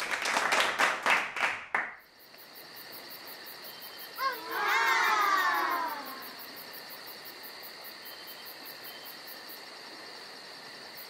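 Clapping and cheering for about two seconds, then a steady high chirping like crickets. A drawn-out 'ooh' of voices falls in pitch about four seconds in and fades by six seconds.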